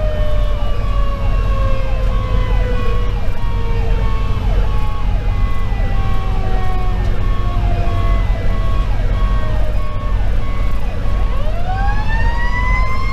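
A Federal Q2B mechanical siren winds down slowly, then spins up again about 11 seconds in. Under it, an electronic siren repeats a fast yelp. Beneath both is the steady rumble of the fire engine's Detroit Series 60 diesel and the road, heard from inside the cab.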